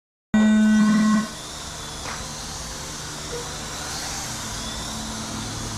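A loud, steady electronic buzzer tone that starts abruptly and lasts just under a second, followed by a steady faint hiss with a low hum underneath.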